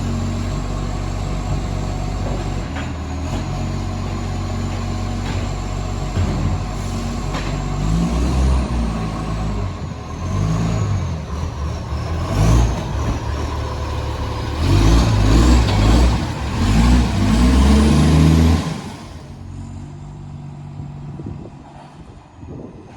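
Garbage truck's diesel engine with a massive exhaust leak, running steadily and then revving up and down several times. The sound drops away sharply near the end.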